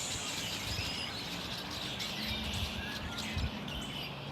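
Large flock of black birds calling overhead, a continuous scatter of overlapping chirps and short whistles.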